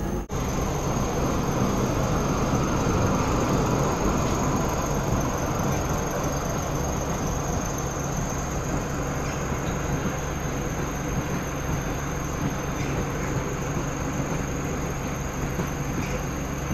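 Heritage railway passenger train rolling past over a level crossing: a steady rumble of coach wheels on the rails, with a thin, steady high-pitched squeal above it and a low idling engine hum.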